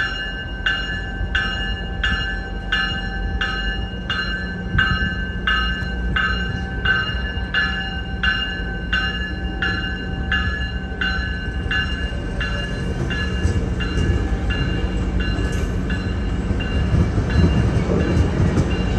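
Diesel commuter train at a station: a bell rings steadily, about three strikes every two seconds, and fades away over the second half. Under it runs the steady hum and rumble of the train, which grows louder near the end.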